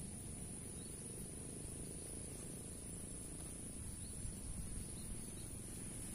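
Steady high-pitched insect trill, like a cricket or cicada, running unbroken over low rumbling background noise.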